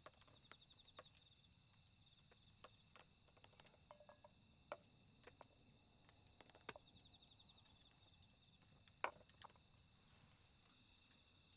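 Insects chirping in steady high trills, with scattered faint crackles and pops from a small campfire; one sharper pop about nine seconds in.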